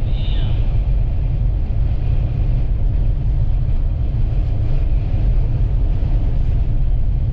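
A moving vehicle's steady low rumble of road and wind noise. A brief high chirp sounds right at the start.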